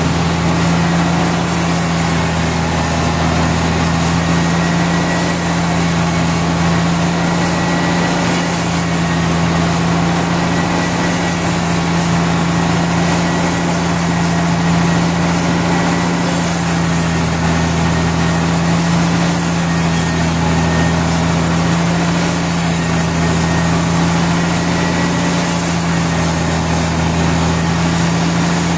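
Sawmill machinery running steadily: a loud, constant low hum over an even noisy wash that does not change.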